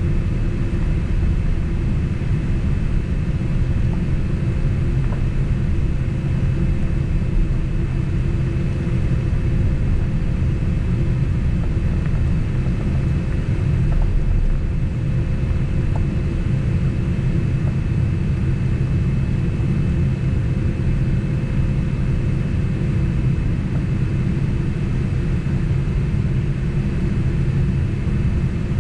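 Boeing 767 passenger cabin noise: a steady low rumble of the jet engines and airflow, with a faint steady whine above it.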